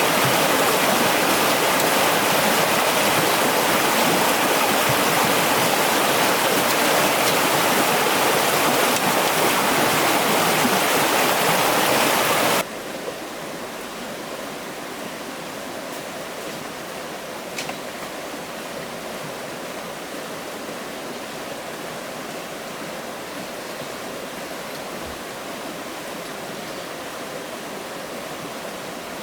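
Steady rush of flowing stream water. About twelve seconds in it drops suddenly to a softer, steady rush.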